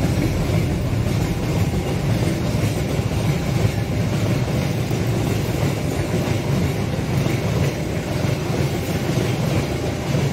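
Container freight train rolling past at close range: a steady rumble of steel wheels on the rails as loaded, then empty, container flat wagons go by.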